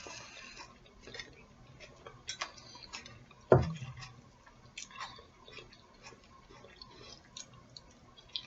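Quiet eating sounds close to the microphone: scattered small mouth and utensil clicks, with one low thump about three and a half seconds in.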